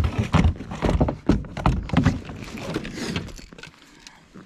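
A run of knocks and clunks of gear being handled in a kayak, close together for about three seconds, then sparser and quieter.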